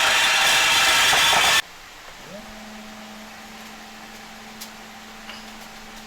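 A power tool working, loud and harsh, that cuts off abruptly after about a second and a half. A much quieter steady hum follows, rising in pitch before it levels off, with a few light clicks.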